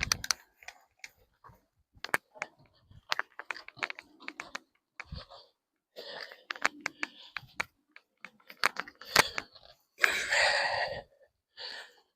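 Irregular clicks and knocks of tools and parts being handled during work on the engine, with a short breathy rush about ten seconds in.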